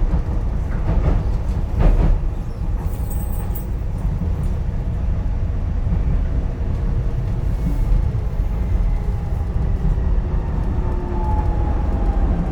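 Docklands Light Railway train running, heard from inside the carriage: a steady low rumble of wheels on track, with two knocks about one and two seconds in. Near the end a faint falling whine sounds as the train slows for the next station.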